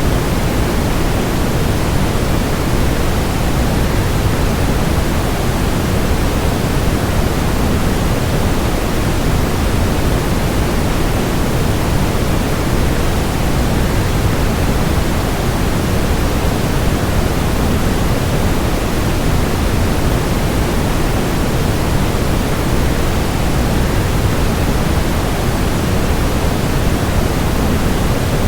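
Waterfall rush blended with white noise, a steady, unchanging hiss that is heaviest in the low end.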